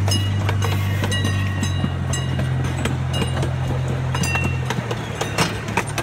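A miniature zoo train rolling along with an open coach: the locomotive's engine hums low and steady, changing pitch about two seconds in and again near the end, while the wheels and coach click and rattle over the track.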